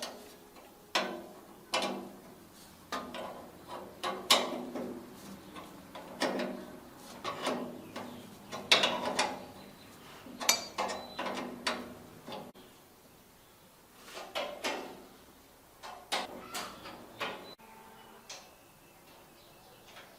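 Hand tools working on metal tractor parts: an irregular run of sharp metallic clanks and ratcheting, one every half second to a second, that stops near the end.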